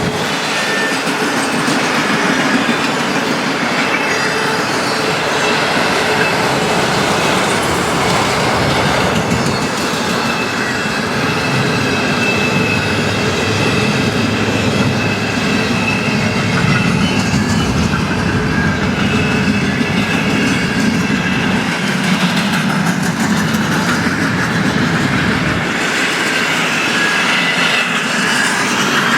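Union Pacific freight train's cars rolling past, a steady loud rumble and clatter of steel wheels on rail, with a faint thin high wheel squeal coming and going.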